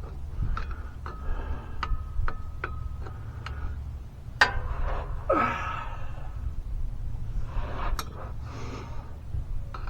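Irregular metallic clicks and taps of a wrench working on bolts under a pickup truck, with a couple of effortful breaths or grunts midway, over a steady low hum.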